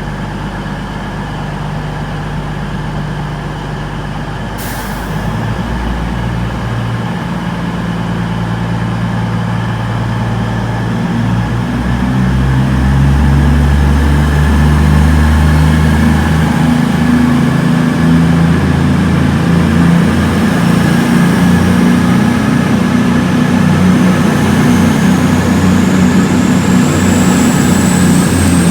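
Diesel train engine running and building up power, its low note rising in steps and getting louder. A high whine rises near the end.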